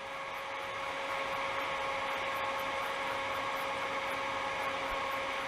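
Small heat engine's wheel spinning fast, a steady whirring hum that builds slightly over the first second and then holds; it is running faster because its cold side has been chilled with refrigerant spray.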